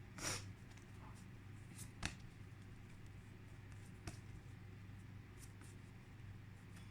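Paper flashcards being shuffled and handled quietly: a soft swish at the start and a few faint clicks, over a low steady hum.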